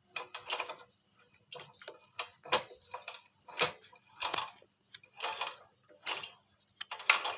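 A series of irregular clicks and light knocks, one every half second to a second, like parts or tools being handled.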